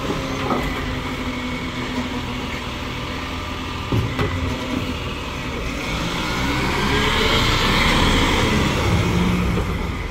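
Garbage truck's diesel engine running, with a single knock about four seconds in. From about six seconds the engine revs up, rising in pitch and getting louder for a few seconds.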